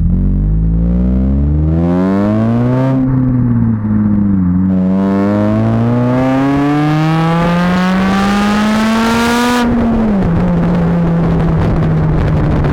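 Honda Civic Type R FN2's four-cylinder engine through a Magnaflow exhaust, accelerating hard: the note climbs, falls once at an upshift about four seconds in, climbs again for several seconds, then drops off sharply near the end to a steady lower drone.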